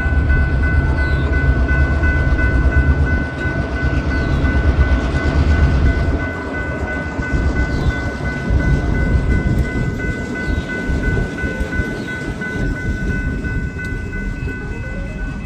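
Diesel switching locomotives working a train, their engines giving a heavy low rumble that eases after about six seconds, under a steady high-pitched squeal.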